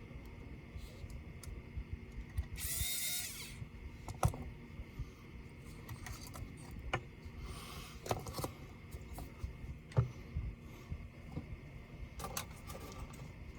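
Small electric screwdriver running briefly about three seconds in, amid scattered clicks and taps of tools and plastic laptop parts being handled.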